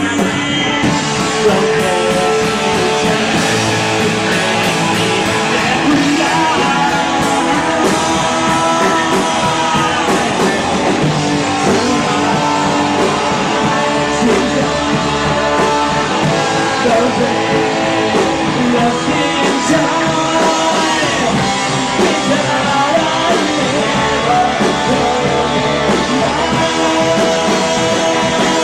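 Live rock band playing a song loudly, electric guitars to the fore, with singing.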